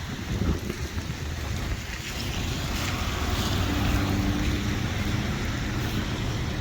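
Wind buffeting the microphone over the hiss of rain and tyres on a wet road. About halfway through, a faint steady vehicle hum joins in.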